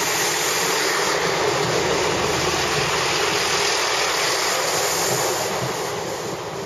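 Class 165 diesel multiple unit passing at speed: a steady rush of wheels on rail and air, dying away near the end as the last carriage goes by.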